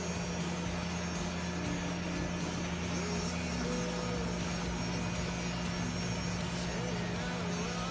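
Electric dog grooming clippers running steadily with a constant motor hum as they clip the coat.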